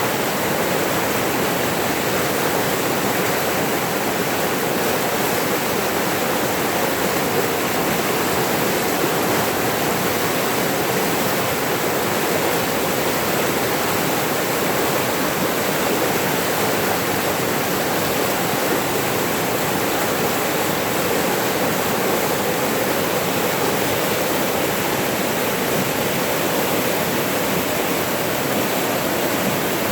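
Running water in a forest stream or small waterfall, a steady rushing that does not change.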